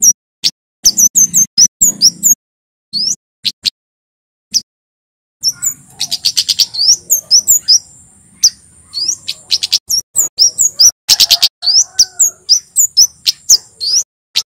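Male Javan flowerpecker (kemade) singing: loud, sharp, high chirping notes repeated in quick series. After a pause of about two seconds in the first half, a denser run follows with a thin, steady high whine and fast rattling trills.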